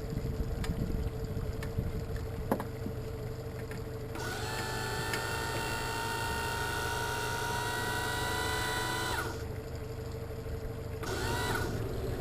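Steady low motor rumble, joined from about four to nine seconds in by a high whine of several steady pitches, which comes back briefly near eleven seconds; a few sharp clicks sound in the first few seconds.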